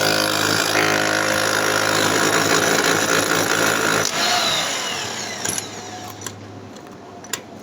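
Electric power tool running at full speed with a steady motor whine, switched off about four seconds in and spinning down, its hum fading out over the next few seconds; a few sharp clicks near the end.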